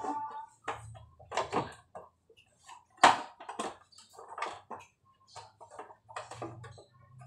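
Irregular knocks and clatters of objects being handled, over a faint low hum that comes and goes.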